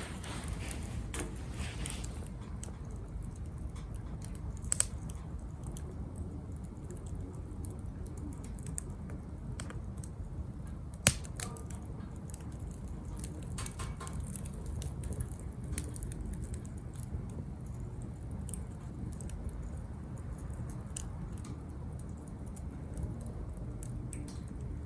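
Wood fire burning in a Captain Stag Kamado Smart Grill B6, a small tabletop fire grill, crackling with scattered small clicks over a low steady rumble. Two sharp pops stand out, about five seconds in and about eleven seconds in.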